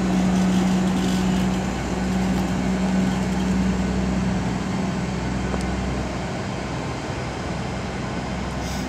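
Passenger train's diesel engines running with a steady hum and low rumble, which fade about six seconds in as the train moves away.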